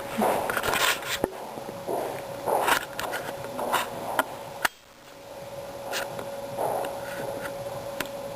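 Cats scuffling in play: claws scratching and scraping on a surface, with scattered clicks and light knocks over a faint steady hum. There is a sudden break in the sound a little past halfway.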